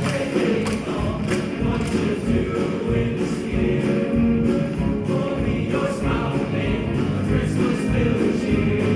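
School choir singing a Christmas song with instrumental accompaniment and a steady beat.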